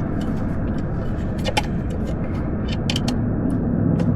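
A steady low rumble with a few sharp clicks of hand tools on metal, two close together about a second and a half in and a pair near three seconds in.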